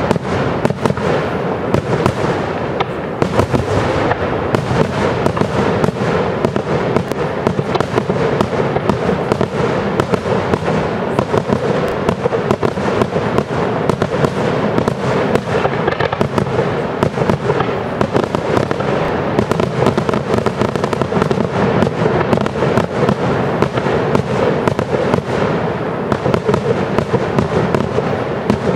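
Fireworks display: aerial shells bursting in a dense, unbroken barrage of bangs and crackle, easing slightly near the end.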